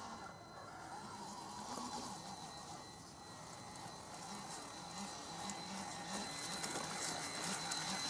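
Vaterra Chevrolet Blazer K5 RC crawler's electric motor and gear drive whining at low crawling speed. It eases off a few seconds in and picks up again toward the end.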